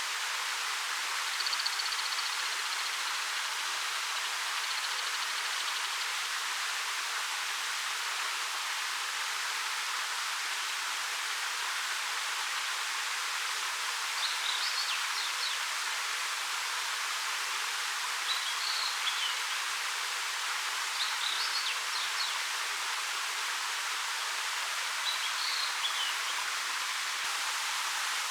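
Steady rushing hiss of a 13 m waterfall falling over rock. A small bird chirps briefly several times, high above the water noise.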